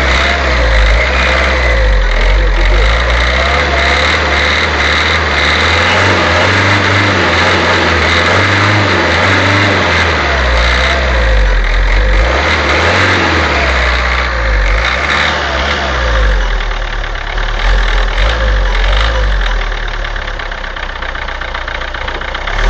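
Renault Kangoo 2's 1.5 dCi four-cylinder diesel engine running, its speed rising and falling a little, with a steady high whistle over the engine note.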